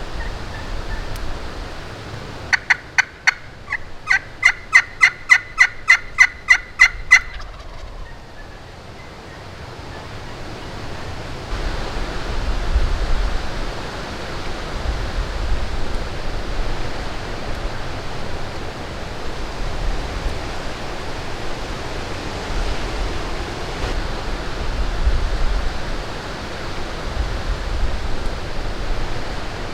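A run of turkey calling: about fifteen sharp, evenly spaced notes over some five seconds, starting a few seconds in. After it, strong wind buffets the microphone with a steady rush and low rumbles.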